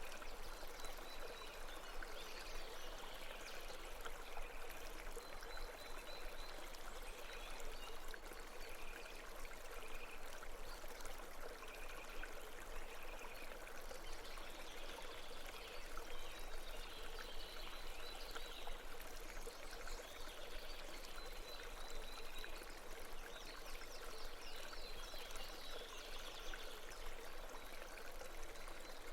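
Steady babbling stream, an even wash of running water over rocks.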